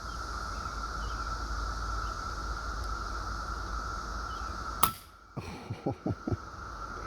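Steady chorus of periodical cicadas holding one pitch. About five seconds in, a single sharp shot from an FX Panthera Hunter Compact .22 PCP air rifle, followed by a few quick clicks.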